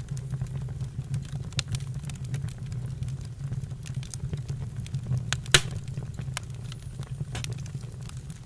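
Campfire crackling: irregular sharp pops and snaps over a low steady rumble, with one louder pop about five and a half seconds in.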